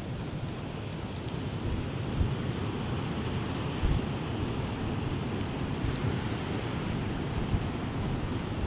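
Strong gusting wind buffeting a clip-on wireless microphone, a constant low rumble with surf from the sea behind it.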